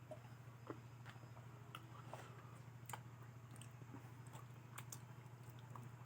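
Faint chewing of spicy fried potato: scattered small clicks and crunches of the mouth, over a low steady hum.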